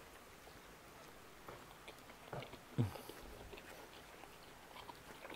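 A person biting into a cheeseburger and chewing a mouthful, heard as faint soft mouth clicks, with a short low hum about three seconds in.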